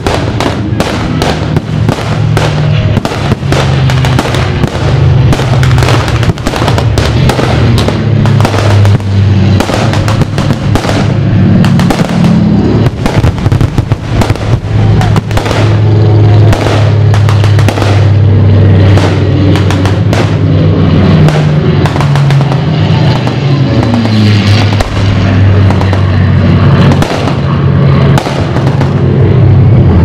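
Aerial fireworks going off in a rapid, continuous run of bangs over music playing.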